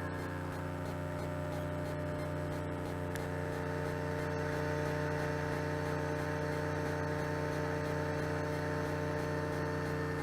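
Steady electrical mains hum with a stack of even overtones and a light hiss, growing slightly louder about four seconds in.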